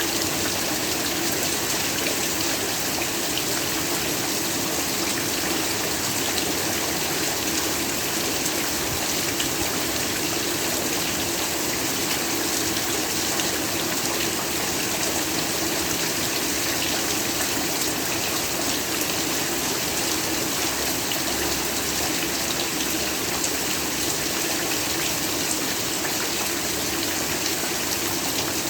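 Heavy rain falling steadily, an even hiss with no gusts or breaks.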